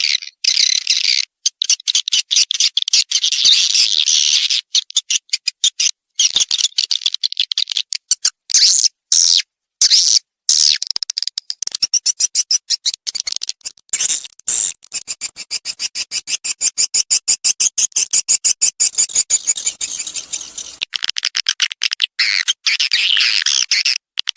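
Swiftlet lure call: edible-nest swiftlets twittering in dense, rapid chirps and clicks with short gaps. A faster, even run of clicking comes through the middle. This is the kind of 'calling sound' played to attract swiftlets to a nesting house.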